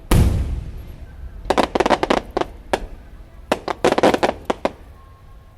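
Aerial fireworks: one shell bursts with a deep boom that dies away slowly. Then come two rapid volleys of sharp crackling pops, a little over a second apart.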